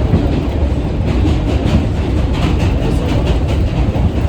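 Subway train running, heard from inside the car: a loud steady rumble with rattling and the clatter of wheels on the track.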